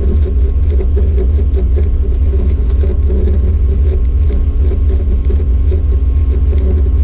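1970 Plymouth Duster drag car's engine idling steadily, heard from inside the cabin as a deep, even rumble.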